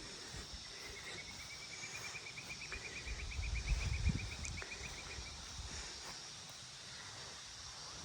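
A bird's long trill: a fast run of short high notes, about seven a second, lasting around four seconds and rising slightly in pitch. A brief low rumble on the microphone partway through is the loudest sound.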